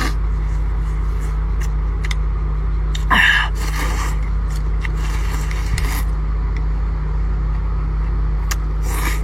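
Noodles being slurped and eaten, with a short noisy slurp about three seconds in and another near the end, over a steady low rumble.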